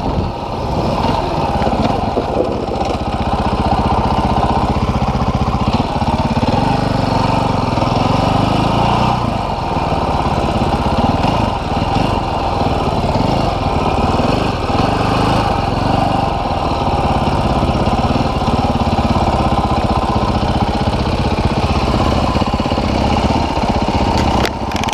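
Dual-sport motorcycle engine running, its pitch rising and falling with the throttle.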